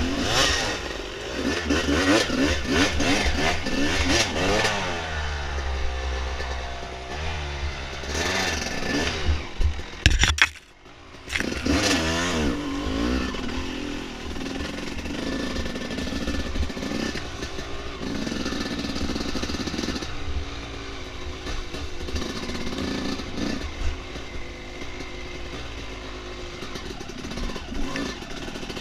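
Dirt bike engine being ridden on a trail, revving up and easing off with the throttle; the pitch falls away for a few seconds. About ten seconds in there is a sharp knock and the engine briefly goes quiet, then it revs up again and runs on fairly steadily.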